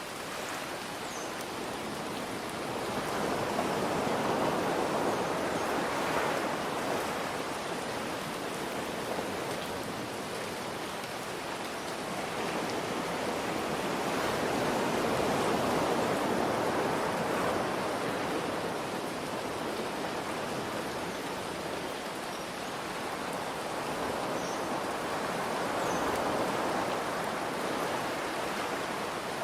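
Ocean waves surging in and washing back, swelling about every ten seconds, over a steady hiss of rain.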